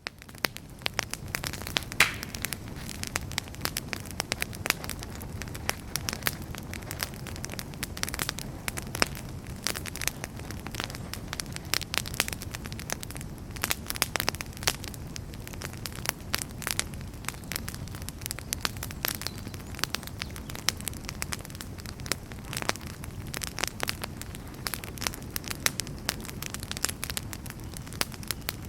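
Wood fire crackling in a fireplace: frequent sharp pops and snaps over a steady low rush of burning, which fades in right at the start after a brief gap.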